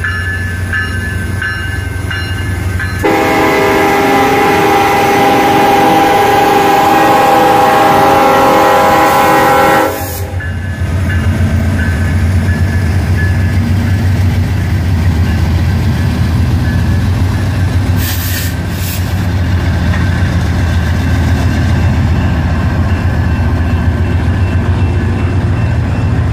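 A locomotive horn on a passing BNSF diesel freight train blows one long chord from about three seconds in and stops abruptly about seven seconds later. Under and after it, the diesel locomotives and freight cars rumble steadily past through a road crossing, with the crossing bell ringing faintly.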